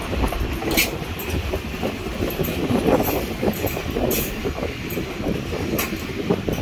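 Passenger train rolling past on the rails: a steady, heavy rumble of wheels and carriages, with a few brief, sharp, high-pitched noises about a second in, near the middle, and just before the end.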